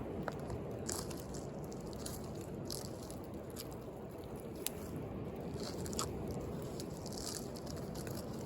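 Wood bonfire crackling, with irregular sharp pops and snaps, over a steady low rush of sea waves.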